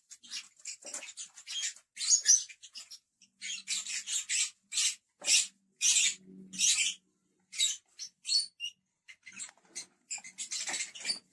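Several lovebirds chattering: a continual run of short, shrill chirps and squawks, some closely bunched, with brief gaps between.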